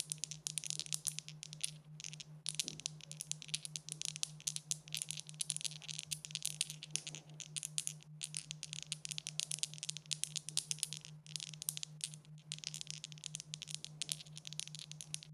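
Dice rattling: a dense, continuous run of small hard clicks with a few brief breaks, over a steady, faintly pulsing low hum.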